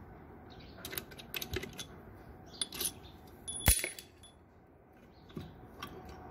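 Small metal parts and a hand tool clicking and clinking while nuts are being undone on an engine, with one sharp ringing metal clink about three and a half seconds in.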